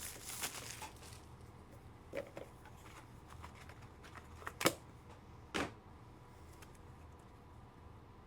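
Trading cards and their plastic holders being handled on a table: a few scattered soft clicks and taps, the sharpest a little under five seconds in, over a low steady hum.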